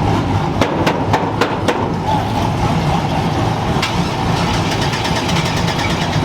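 A vehicle engine idling with a steady low rumble. Four sharp cracks come about a second in, and a fast run of ticks follows in the second half.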